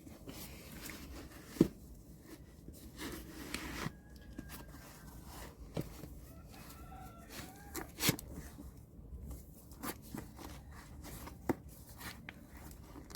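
Rustling and handling noise with a few sharp clicks, the loudest about one and a half and eight seconds in, and faint distant bird calls about halfway through.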